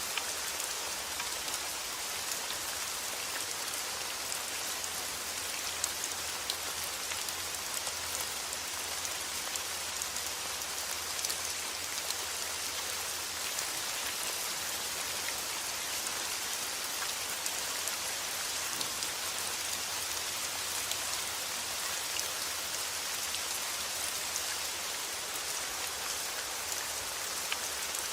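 Steady, even rainfall hissing, with the ticks of individual drops scattered through it.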